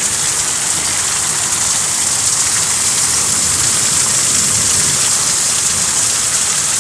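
Heavy thunderstorm rain falling steadily: a loud, even hiss with no thunderclap.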